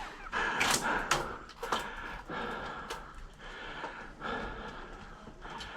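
A handful of sharp, irregular clicks and knocks over a faint steady hiss.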